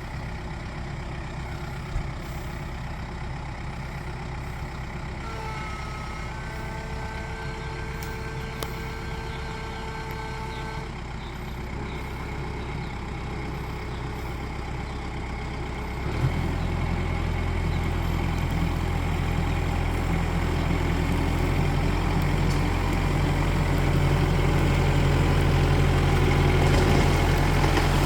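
Tractor engine running steadily; about sixteen seconds in it steps up with a knock and runs harder and louder, building toward the end. A thin steady whine rides over it for several seconds early on.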